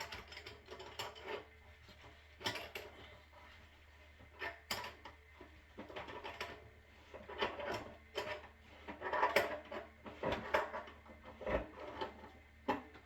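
Intermittent clicks, knocks and rattles of hands and tools working on the water heater's pipe fittings, as a pipe is fitted by hand.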